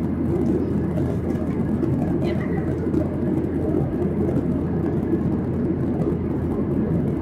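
Steady cabin noise of a Boeing 737-800 climbing: a low, even drone of its CFM56 turbofan engines and the airflow over the fuselage.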